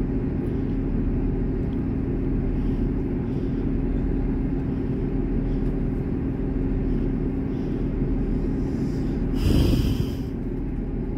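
Steady low rumble and hum of a diesel train idling, heard from inside the passenger cabin while it stands waiting. A brief loud hiss about nine and a half seconds in.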